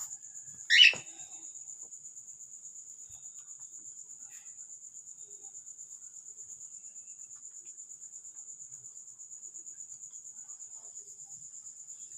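A cricket trilling steadily at a high pitch. Just under a second in, a pet cockatiel gives one short, loud call that falls in pitch.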